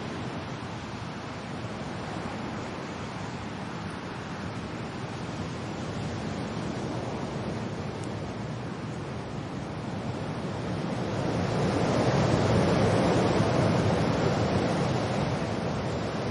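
Wind and rain: a steady rushing noise, with a gust swelling up about two-thirds of the way through and easing off near the end.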